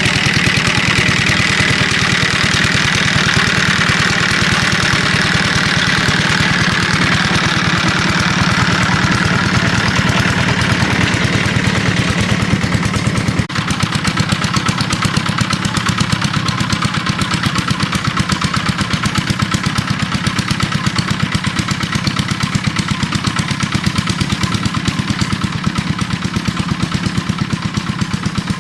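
A small engine running steadily with a fast, even pulse. About halfway through, a hissing rattle on top of it drops away abruptly.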